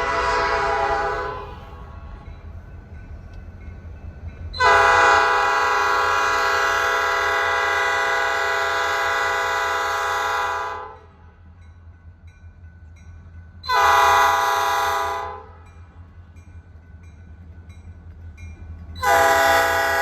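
Diesel locomotive's multi-chime air horn sounding blasts in the grade-crossing pattern: one blast dying away, a long blast of about six seconds, a short blast, then another long blast starting near the end. A steady low rumble runs underneath.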